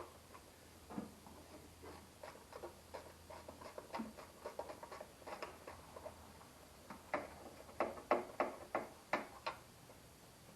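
Hand ratchet clicking in short irregular runs, closer together and louder for a couple of seconds near the end, while tightening intake manifold bolts by feel rather than to a torque spec.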